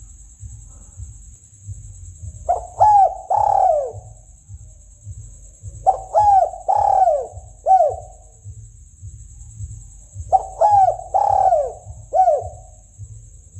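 Spotted dove cooing: three phrases about four seconds apart, each of two or three low notes, the notes bending down at their ends. A steady high hiss and a low crackle run underneath.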